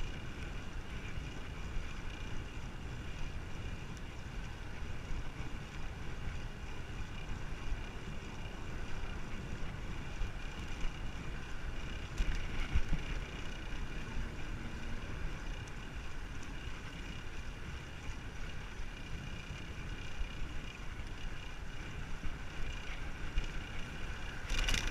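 Wind rumbling steadily on the microphone of a camera carried on a moving bicycle, with a few louder gusts about halfway through.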